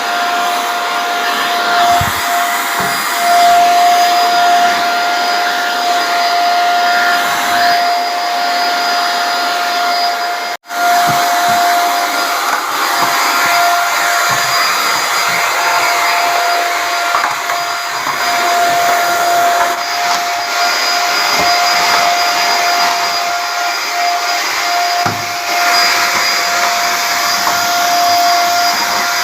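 Pensonic vacuum cleaner running steadily, a constant motor whine over rushing air. It cuts out for a split second about ten and a half seconds in, then carries on.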